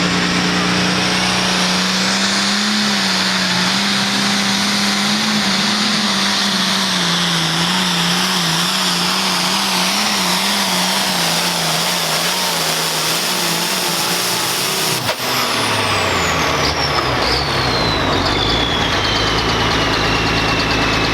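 Super Pro Farm pulling tractor's turbocharged diesel engine running hard at high rpm during a pull, its pitch wavering up and down. About fifteen seconds in, a high whine starts and falls steadily in pitch.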